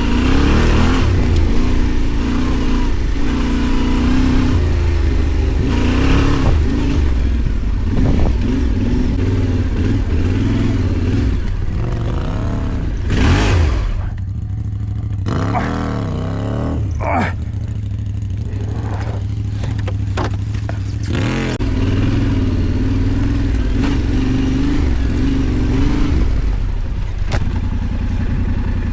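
Yamaha Ténéré 700's parallel-twin engine running under load off-road, its revs rising and falling repeatedly as the throttle is worked.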